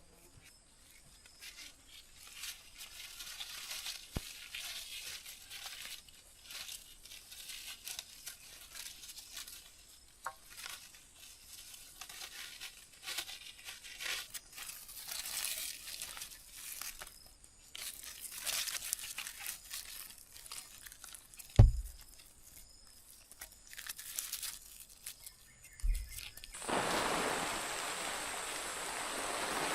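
Irregular crinkling and rustling handling noises, with a loud thump about two-thirds of the way through and a second one a few seconds later. Near the end a steady rushing of water sets in.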